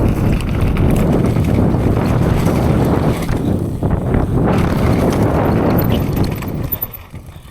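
Heavy wind rushing over the microphone of a mountain bike ridden fast down a dirt-jump run-in and over the jump, with the rush of the tyres on dirt. It dies away near the end as the bike slows.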